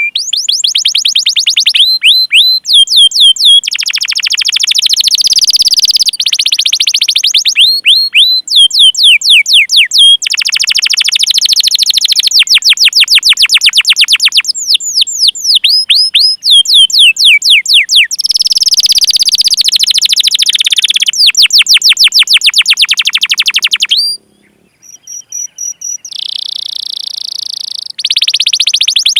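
Domestic canary singing in full voice: long, fast rolling trills of quick downward-sweeping notes, alternating with slower runs of separate 'cuit cuit' chirps. The song drops away briefly near the end, then resumes.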